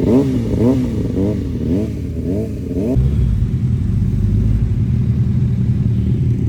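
Motorcycle engine revved in a quick series of throttle blips, pitch rising and falling about every half second, then, after a sudden change about three seconds in, running steadily.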